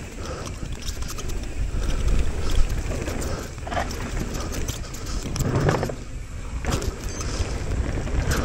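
Mountain bike riding fast down a dirt bike-park trail: tyres rumbling over the ground, with the chain and bike rattling over bumps and wind on the helmet microphone. A louder rough patch comes a little past halfway.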